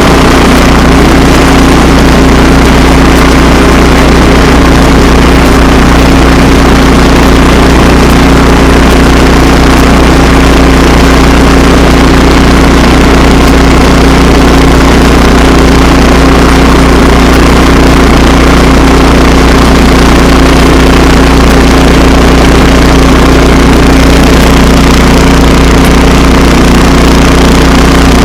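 Tractor engine running loud and steady while plowing snow, a constant hum that does not change.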